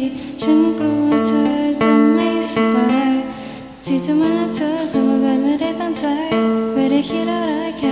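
Acoustic guitar playing chords through an instrumental break between sung lines, with a wavering melody line over the chords in the middle.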